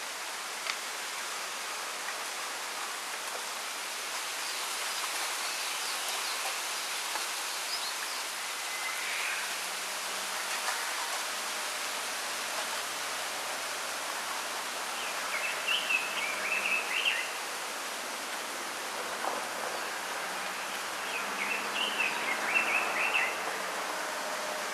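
Wind rustling through a bamboo grove as a steady hiss, with small birds twittering in quick high chirps, fainter early on and in two louder bursts in the second half.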